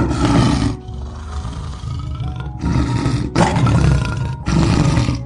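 Male lion roaring: one long loud roar, a quieter stretch, then three roars close together.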